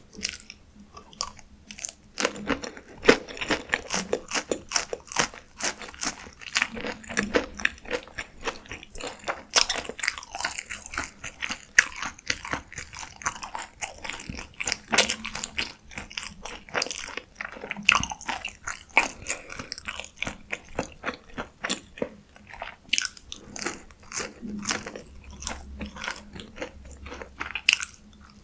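Close-miked eating of a fast-food meal: a run of crisp bites and quick, irregular crunching and chewing, sparse for the first couple of seconds and then dense.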